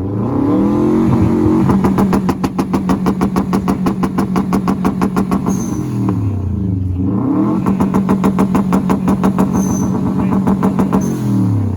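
A supercar engine being revved, twice: each time it rises quickly to high revs and is held there for several seconds with a fast, regular pulsing, dropping back briefly in the middle and falling again near the end.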